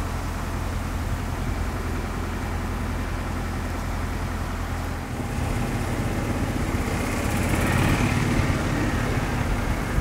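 A motor vehicle engine running with a steady low hum, growing somewhat louder about halfway through.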